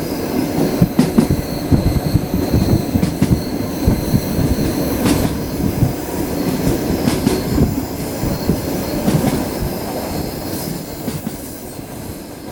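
Passenger coaches of a suburban train rolling over the rails, with a steady rumble, wheels knocking irregularly over rail joints and a thin high wheel squeal.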